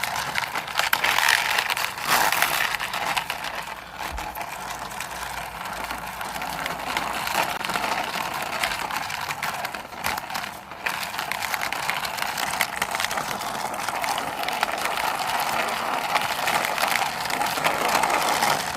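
Toy helicopter pushed along by hand, giving a continuous rattling, scraping noise of rapid small clicks, with brief dips near the middle.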